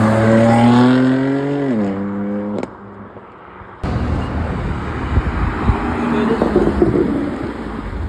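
A car engine revving as it pulls away, its pitch climbing and then dropping sharply about two seconds in. After a brief quieter moment, a loud rough rumble follows, broken by sharp pops.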